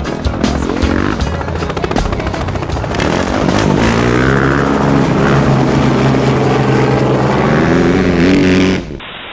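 Motocross bike engine running hard and held at high revs over background music, cutting off suddenly near the end.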